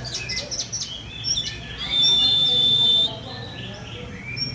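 Young oriental magpie-robin (kacer) singing: a quick run of short chirps and high notes, then one long, steady high whistle held for about a second, then more scattered chirps.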